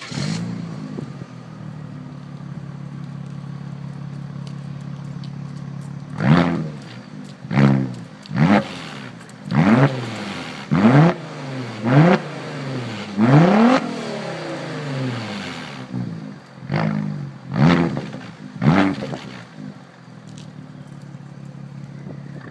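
Audi A6 2.7T's twin-turbo V6 through a custom exhaust. It starts and idles, then is revved in about ten quick blips, one of them held a little longer, before it settles back to idle.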